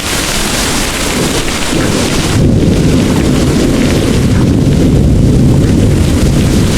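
Heavy rain pouring with a steady hiss. About two and a half seconds in, a long low rumble of thunder rolls in and keeps going, and the rain's hiss drops back under it.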